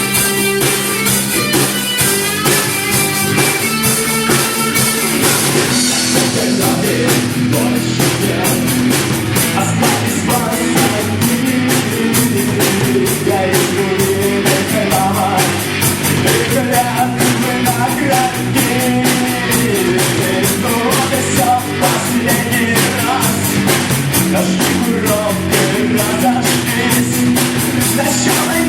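Live rock band playing with electric guitar and drum kit; after about six seconds the sound fills out, with the beat marked by steady drum hits.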